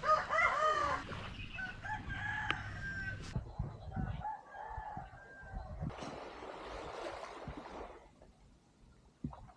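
Roosters crowing: a loud crow right at the start that falls in pitch at its end, then two fainter crows about two and four seconds in. A soft rushing hiss follows for a couple of seconds.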